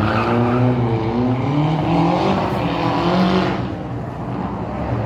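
Rally car engine revving hard, its pitch climbing and dropping several times as the driver works the throttle and gears, then easing off about three and a half seconds in before picking up again near the end.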